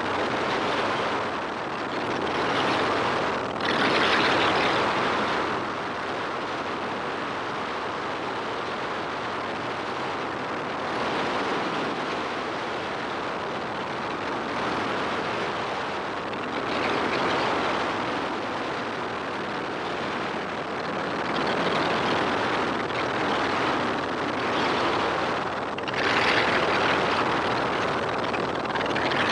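Helicopter in flight, its engine and rotor noise mixed with wind rushing over the camera microphone. The roar swells and eases every few seconds.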